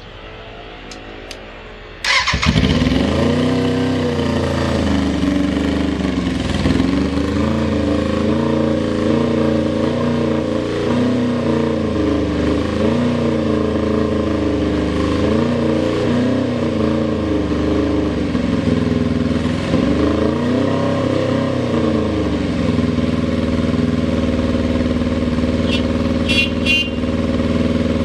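Suzuki Bandit 400's inline-four engine cranked on the electric starter, catching about two seconds in and then running, with its speed rising and falling gently every couple of seconds. The seller describes it as starting on the button and idling steadily with no abnormal noises. A few light clicks are heard near the end.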